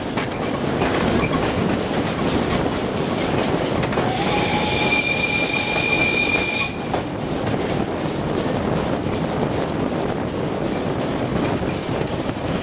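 Narrow-gauge steam train running, heard from a coach behind the Px48 locomotive: steady rumble and clatter of the wheels on the track. About four seconds in, a steady shrill tone over a hiss starts suddenly, holds for about two and a half seconds and cuts off.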